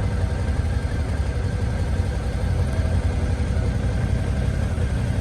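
Motorcycle engine running steadily with a low rumble, under a constant hiss.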